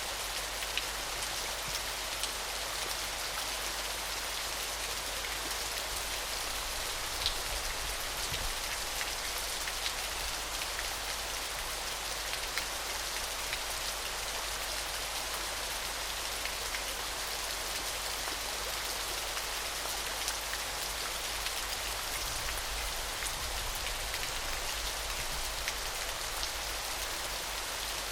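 Small, gentle waterfall: a steady, even hiss of splashing water, with scattered small drip-like ticks.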